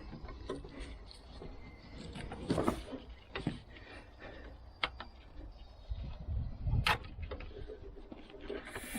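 Scattered clicks and knocks of parts and tools being handled during strut removal on a car, with a low rumble about six to seven seconds in and a sharp click near the end of it.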